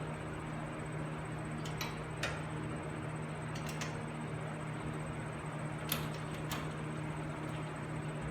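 Steady low hum with about six light, scattered metallic clicks from hand tools working the bolts of a front wheel hub assembly.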